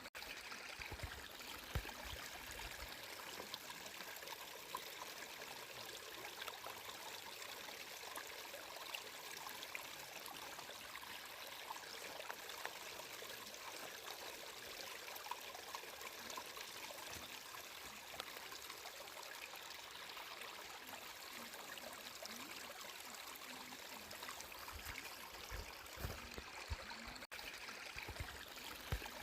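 Flowing water babbling and trickling steadily, with occasional low rumbles of the current and a momentary gap in the sound near the end.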